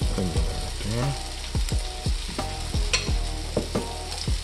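Grated-potato hash brown patty frying in hot oil in a cast-iron skillet: steady sizzling with frequent short pops.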